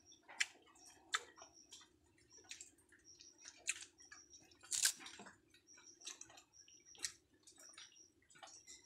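Close-up chewing of raw wild bee comb: irregular wet, sticky smacks and crackles of wax being worked in the mouth, a few of them sharper and louder.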